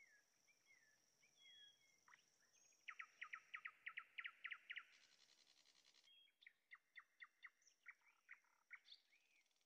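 Birds singing faintly: a few short down-sliding whistles, then two runs of quick repeated chirps, the first run faster, over a faint steady high tone.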